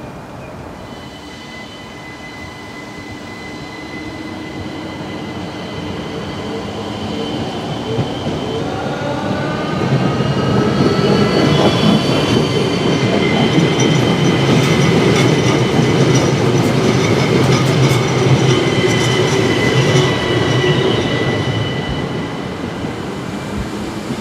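ÖBB Cityjet class 4744 (Siemens Desiro ML) electric multiple unit passing. It grows louder over the first ten seconds, is at its loudest for about ten seconds, then fades. High whining tones rise as it comes in, over a clattering rattle from the running gear, which the uploader puts down to loosely hung components and not to a fault.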